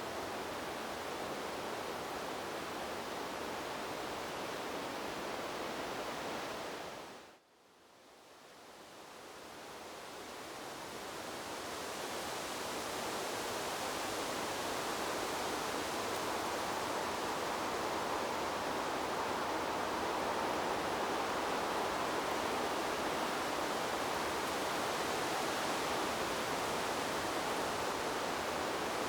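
Steady rushing of wind blowing through trees, an even hiss with no distinct gusts. About seven seconds in it fades away to near silence, then swells back up over several seconds and holds steady.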